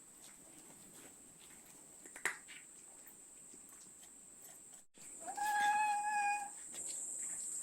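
A yard cat gives one long meow about five seconds in, rising at the start and then held steady for over a second. Underneath runs a steady high-pitched chirring of autumn insects, with a single soft tick about two seconds in.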